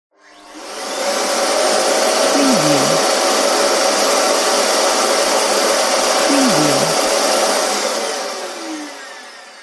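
Household vacuum cleaner switched on, its motor spinning up to a steady whine and rush of air. It runs evenly, with a brief low wobble twice, then is switched off and the motor winds down, its pitch falling.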